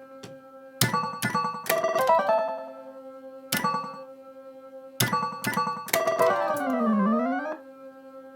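Oohanabi pachislot machine's electronic sound effects: a run of short ringing tones as it is played, then a swooping tone that dips down and climbs back up, over a steady low background tone from the machine.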